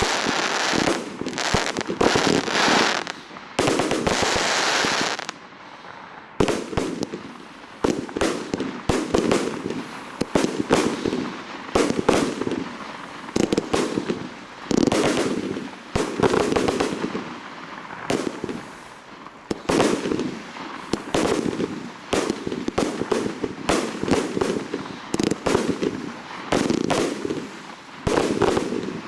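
Fireworks display: a dense run of rapid bangs and crackling for about the first five seconds, then separate shell bursts with booms, about one every second or two.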